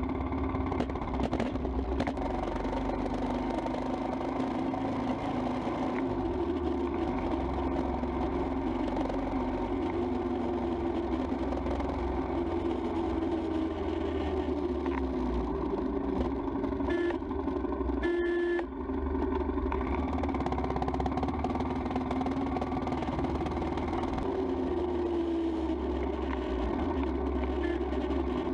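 Royal Enfield Himalayan's single-cylinder engine running steadily while the motorcycle is ridden along the road. A few short high tones sound about two-thirds of the way through.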